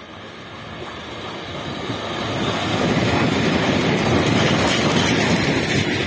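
ChS8 electric locomotive hauling a passenger train, rolling past close by: the rumble of wheels on the rails grows louder over the first three seconds as it draws near, then holds loud as the locomotive and the first coaches go by.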